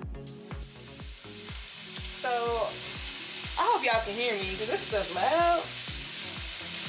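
Seasoned chicken frying in butter and oil in a pot: a loud, steady sizzle.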